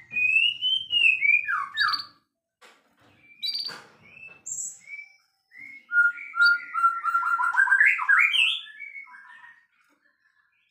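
White-rumped shama singing: loud whistled phrases with sliding notes, scattered single notes, then a long rapid run of notes from about six to nine seconds in.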